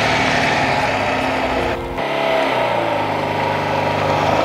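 Tofaş sedan's four-cylinder engine running steadily at low speed. About two seconds in the sound changes suddenly, and the engine note then rises slightly.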